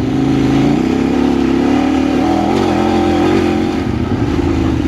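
Kove 800X Pro adventure motorcycle's parallel-twin engine running under load on a rough trail. The revs rise a little about a second in, then hold fairly steady with small wavers.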